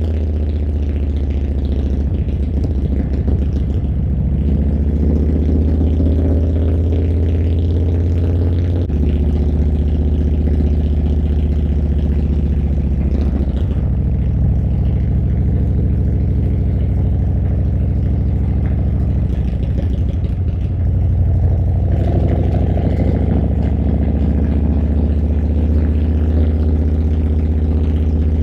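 Harley-Davidson Milwaukee-Eight V-twin engine running while the motorcycle is ridden. Its low, steady note steps down in pitch about a third of the way in and again about halfway, then grows louder a little after two-thirds through as the throttle opens.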